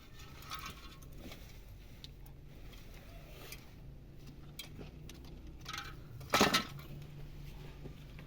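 Light clinks and knocks of small hard objects being handled, with one louder clatter about six seconds in.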